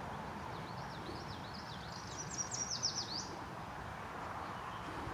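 A songbird sings one phrase of quick, high up-and-down notes that speed up into a fast trill, the loudest part, about three seconds in. Under it runs a steady hiss of distant highway traffic.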